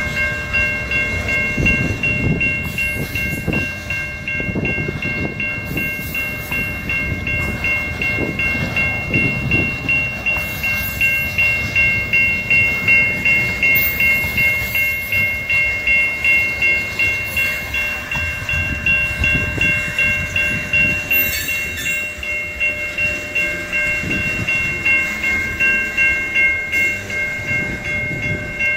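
Union Pacific freight train's cars rolling past, wheels clacking over the rail joints in a regular rhythm, with a steady high-pitched ringing tone held throughout.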